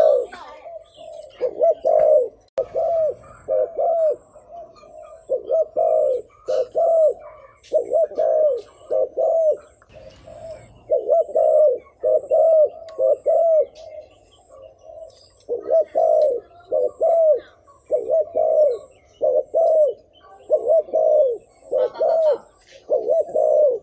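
Spotted dove cooing: short arching coos repeated in quick clusters of two to four, with brief pauses between the clusters.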